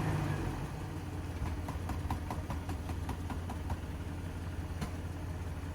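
Off-road vehicle engine idling steadily, with a run of quick light ticks, about six a second, for a couple of seconds near the middle.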